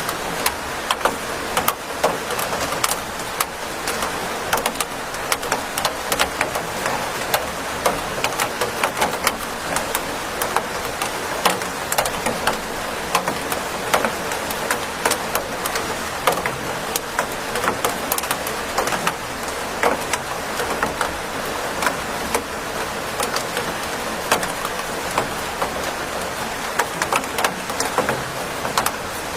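Steady rain: a dense, even hiss with many individual drops ticking sharply throughout.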